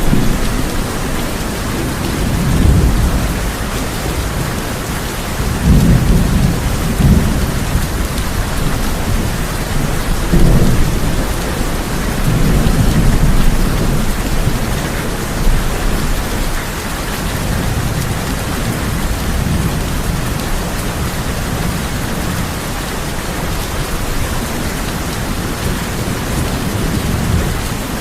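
Heavy rain falling steadily on a tin roof, with low rolling thunder swelling and fading several times; the loudest rumbles come about six and ten seconds in.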